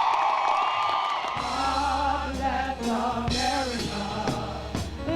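A crowd cheering, cut into about a second in by a song with a steady bass line and a singing voice.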